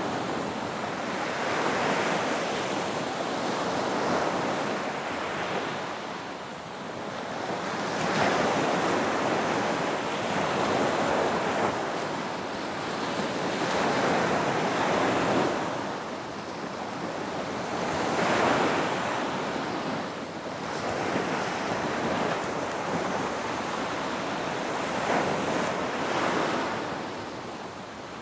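Ocean surf breaking on a beach, the wash swelling and fading in slow surges about every four to six seconds.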